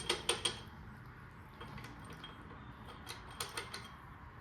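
A few light metallic clicks and clinks of bolts and tools being handled during an engine teardown, in two short clusters, near the start and about three seconds in, over a low background hum.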